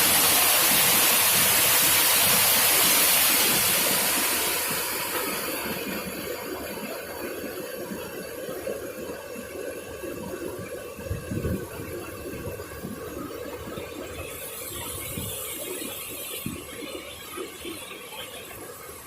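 Rushing stream water, a loud steady hiss that fades to a quieter rush after about four seconds, with scattered low knocks and rustles.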